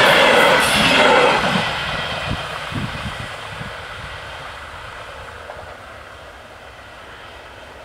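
Deutsche Bahn Intercity passenger coaches rolling past on the rails, loud until the last coach clears about a second and a half in, then a few low wheel knocks and the rumble fading away as the train recedes.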